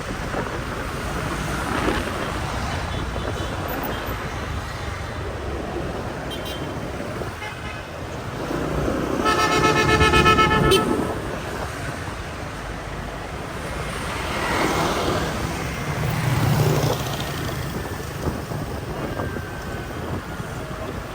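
Busy street traffic heard from a moving motorbike: engines and road noise throughout, with a vehicle horn honking loudly for about a second and a half about nine seconds in. A passing vehicle's engine swells up and fades away near the middle of the second half.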